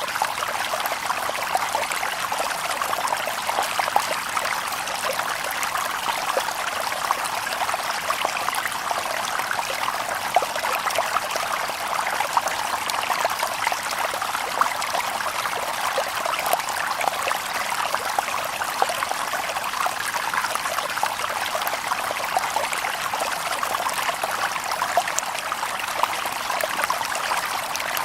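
Shallow stream babbling over stones: steady, unbroken trickling and splashing, thick with small splashes.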